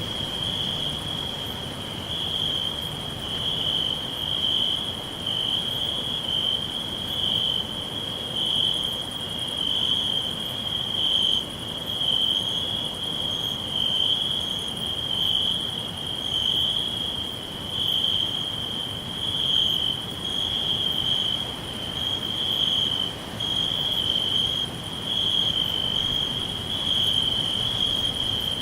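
Crickets chirping in a continuous high trill that swells and dips in loudness about once a second, with a fainter, higher insect shimmer above it.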